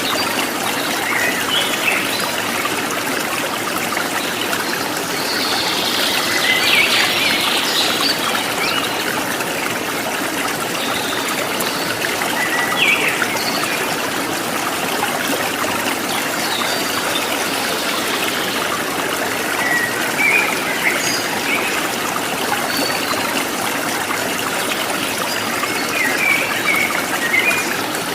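A stream trickling and burbling steadily, with small birds chirping now and then over the water.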